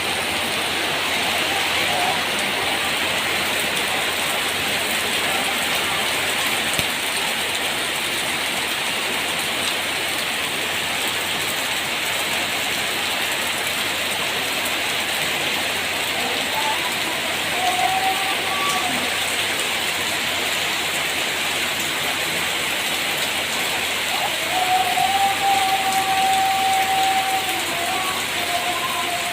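Steady rain falling and pattering on the garden. A faint voice is heard briefly twice, near the middle and again near the end.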